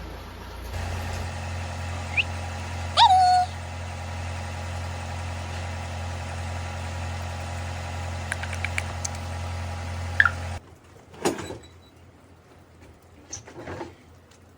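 A steady low motor-like hum with a few short rising calls over it, about two and three seconds in and again near ten seconds. The hum cuts off suddenly about ten and a half seconds in, leaving a quieter stretch with a few knocks.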